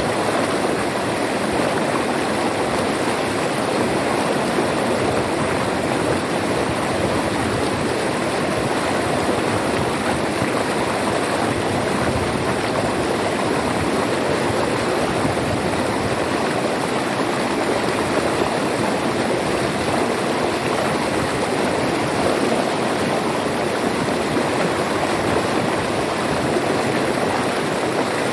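River water flowing over rocks, a steady rushing and burbling that holds even throughout.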